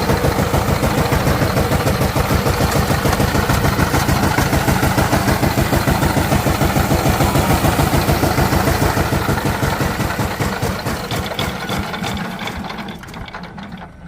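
Power tiller's single-cylinder diesel engine running with an even, rapid beat, then slowing and fading away over the last few seconds as it winds down.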